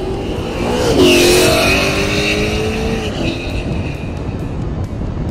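Ford Mustang race car engine revving hard at a drag-race launch, its note climbing and loudest about a second in. A high thin tone sits over it for a couple of seconds, and the sound then slowly fades as the car pulls away.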